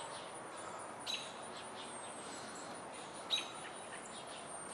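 Birds chirping outdoors: two short, sharp chirps, about a second in and again a little past three seconds, with faint thin high whistles between them, over a steady background hiss.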